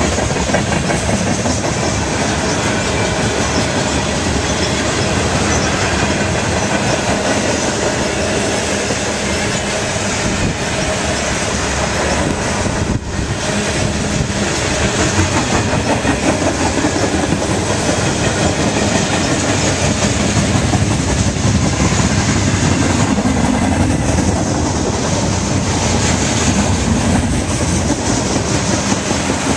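Freight cars of a manifest train rolling past, their wheels clicking steadily over the rail joints.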